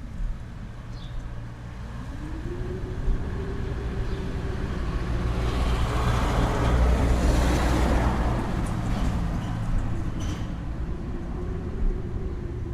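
A road vehicle passing: a low rumble and engine hum build to their loudest about halfway through, then ease off.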